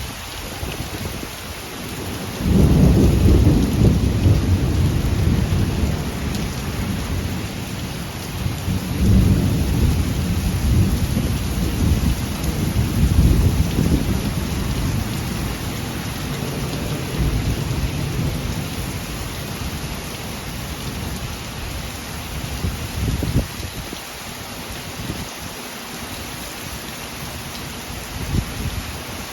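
Heavy rain hissing steadily while a long peal of thunder breaks in suddenly about two seconds in, rumbling and rolling in waves before fading away over about twenty seconds.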